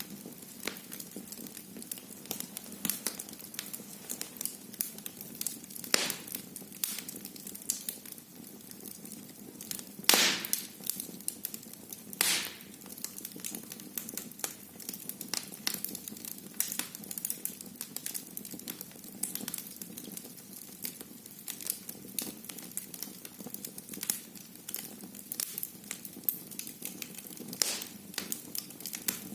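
Wood fire in a fireplace crackling steadily, with many small sharp pops over a low hiss and a few louder pops, the loudest about ten seconds in.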